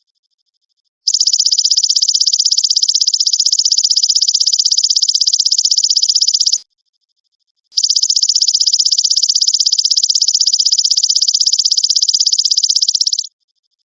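Belalang emas (golden grasshopper) calling: a rapid, high-pitched pulsing trill in two long bouts of about five seconds each, with a second of silence between them.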